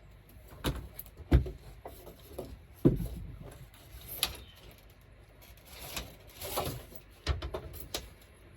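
Irregular knocks and clunks of tools and parts being handled during work, about eight in all, the loudest in the first three seconds.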